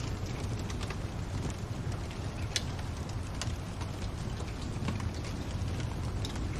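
Wood fire crackling in a fireplace: a steady low rumble of burning with scattered sharp pops and snaps, one sharper pop about two and a half seconds in.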